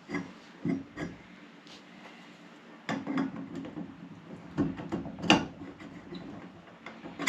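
A series of light knocks and clicks from objects being handled, irregularly spaced, the loudest about five seconds in.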